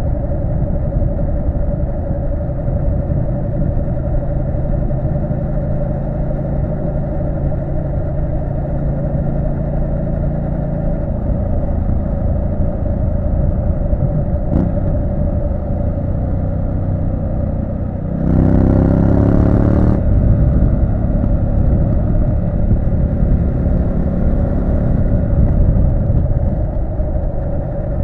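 Triumph Street Scrambler 900 parallel-twin engine running steadily under way. About two-thirds of the way in it revs up for about two seconds, its pitch rising, then carries on louder. A single sharp click is heard about halfway through.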